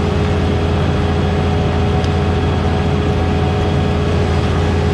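Heavy diesel engine of harvest machinery running steadily under load, a constant low drone with a steady whine above it.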